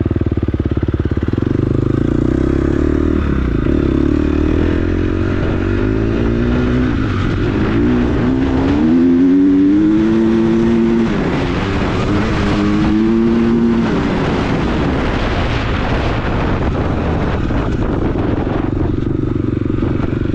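Four-stroke dirt bike engine running hard at wide-open throttle. The engine note climbs about six seconds in, holds high, dips briefly and climbs again, then settles back lower for the rest.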